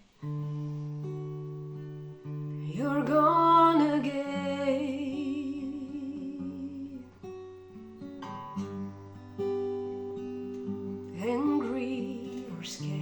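Acoustic guitar playing a slow song intro with held, plucked chords. A wordless voice glides upward and holds a wavering note twice: about three seconds in and again near the end.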